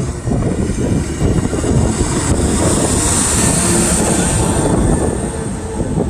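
Large trucks' engines running as they drive past, with a high hiss that swells in the middle.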